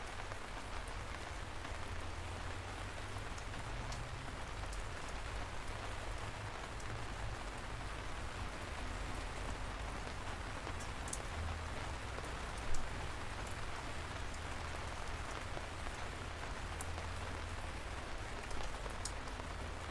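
Light rain falling steadily, an even patter with individual drops ticking sharply now and then, over a low steady rumble. One drop lands noticeably louder about two-thirds of the way through.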